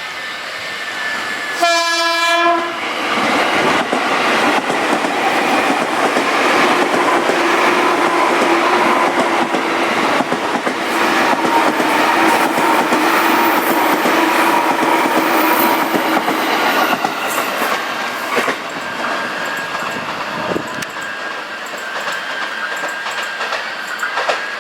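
Train passing close by at a level crossing: one short horn blast about two seconds in, then the loud rush and clatter of wheels on rail, which eases off after about eighteen seconds.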